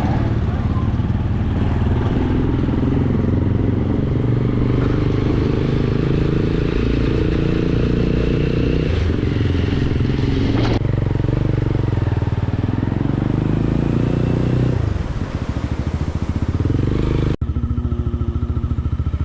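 Motorcycle engine running under way, a steady low drone; the engine note drops for about two seconds near the end, as if the throttle is eased, and then the sound breaks off for an instant.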